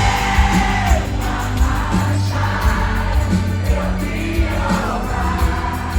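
A live rock band playing loud through a big hall's PA, with a lead singer and the crowd singing along.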